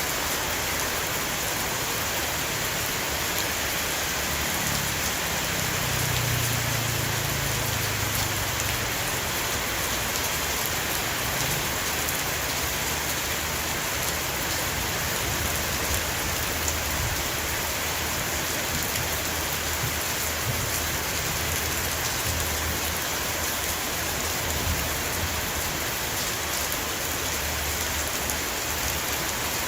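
Heavy rain pouring steadily onto a roof, an even dense hiss of drops, with a faint low rumble about five seconds in.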